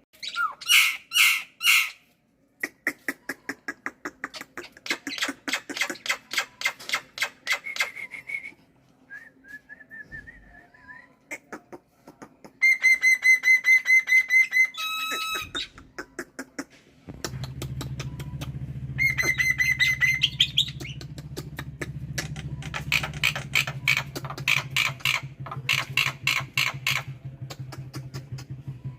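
Black-winged starling (jalak putih) singing a long, varied song of fast repeated chattering notes and clear whistles, broken by short pauses. A low steady hum joins about halfway through.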